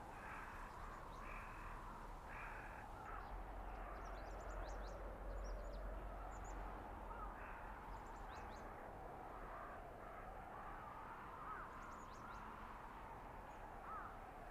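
Winter forest blizzard ambience: wind howling as a steady whine that slowly rises and falls in pitch. A few short calls repeat in the first three seconds, with faint high chirps scattered through.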